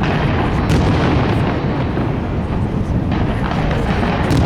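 Fireworks display in a dense barrage: many overlapping bangs and booms merge into one continuous rumble, with sharper cracks standing out now and then.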